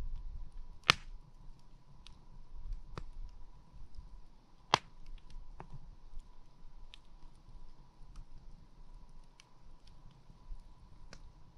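Wood campfire crackling, with scattered small snaps and two sharp, loud pops, one about a second in and one near the middle.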